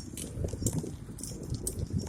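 Bicycle rattling and clicking in motion, with scattered sharp ticks over an uneven low wind rumble on the microphone.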